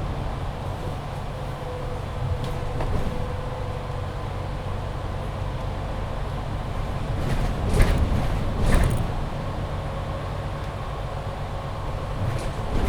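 Onboard sound of a MAN Lion's City 19C EfficientHybrid articulated bus: a steady low rumble from the running bus. Two short, loud noisy bursts come about eight and nine seconds in, with a smaller one near the end.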